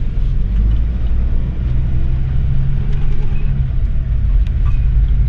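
Class C motorhome's engine and road rumble heard from inside the cab as it pulls away, a deep steady drone that grows slightly louder.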